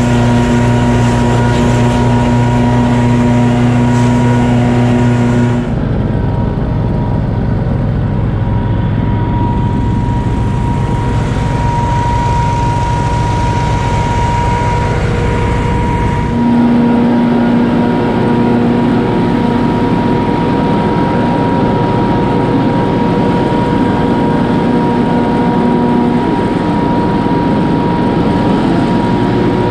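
Gas engine of a truck-mounted leaf vacuum (debris loader) running steadily at high speed while it sucks up wet leaves. Its tone changes abruptly twice, about six seconds in and about sixteen seconds in.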